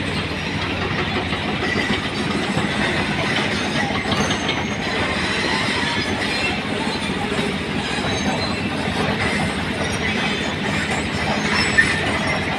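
Heavy machinery running steadily with continuous mechanical clatter, with one sharp knock near the end.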